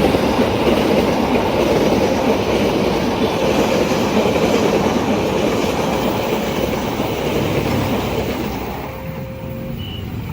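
A train rolling past at a level crossing, its wheels running loud and steady on the rails, then dropping away about eight and a half seconds in as it passes.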